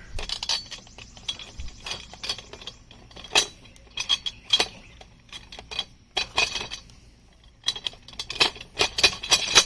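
Hardware clicking and clinking as a chainsaw-mill kit is assembled: bolts, nuts and parts knocked together and set in place in irregular sharp clicks, with a quicker run of them near the end.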